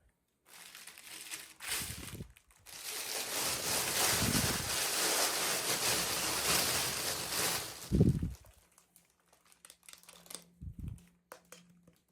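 Plastic toy packaging crinkling and crackling as it is handled and opened, most continuously for about five seconds in the middle, with a few dull thumps of handling, the loudest near the end of the crinkling.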